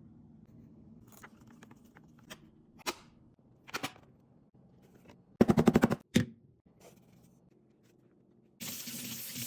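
Small clicks and knocks of plastic parts being handled, with a quick rattle of about ten clicks in under a second midway. A short spray hiss follows near the end.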